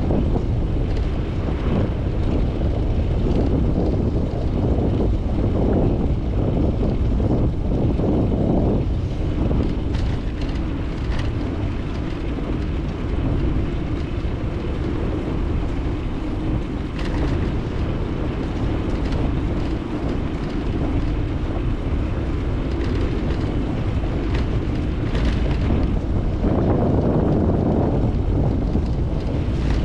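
Wind rushing over a GoPro 9's microphone as the bicycle rides along, a steady low rush, with several short sharp clicks or rattles, most of them in the second half.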